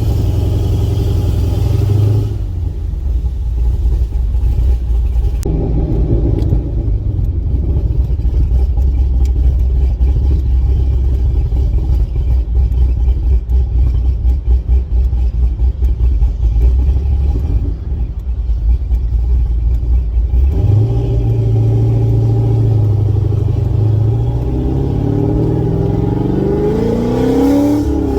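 Car engine running and road rumble while driving; near the end the engine note rises steadily as the car accelerates.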